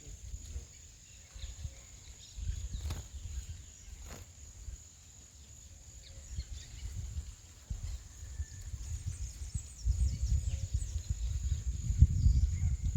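Outdoor ambience: wind buffeting the microphone in uneven gusts that grow stronger near the end, over a steady high insect drone. Two sharp clicks come about three and four seconds in, and a few faint high bird chirps follow later.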